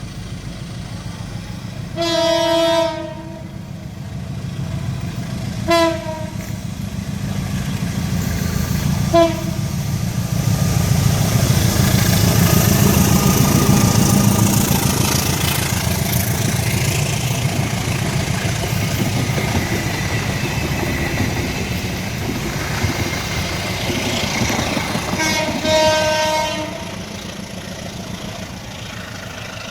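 Train horn blown four times at one steady pitch, a long blast, two short toots and a final long blast, over the steady rumble of a train running past on the rails, loudest in the middle.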